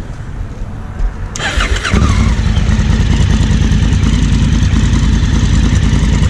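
2016 Honda Africa Twin CRF1000L's parallel-twin engine started: about a second and a half in, the starter cranks briefly, the engine catches, and it settles into a steady idle.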